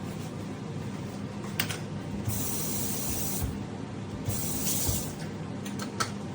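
Two short bursts of high hiss, each under a second long, with a sharp click before and after them, over a steady low hum.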